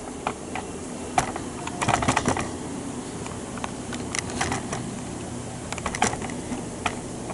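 FESTO pneumatic training rig running its sequence: scattered sharp clicks and knocks from solenoid valves switching and air cylinders stroking, some in quick clusters, over a steady low hum. The cylinder motion has just been slowed at the flow-control valve because its force was too great.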